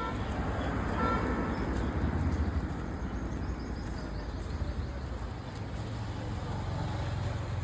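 Street traffic: a motor vehicle's engine rumble and road noise, steady throughout.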